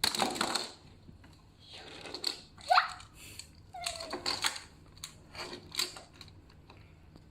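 Plastic toy train cars being handled and clipped back together: a scatter of light clicks and rattles, with a brief rising squeak about three seconds in.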